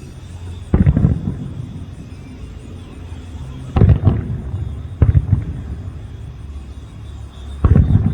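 Aerial fireworks shells bursting: four booms spaced a second or more apart, each trailing off in a crackling, rumbling echo.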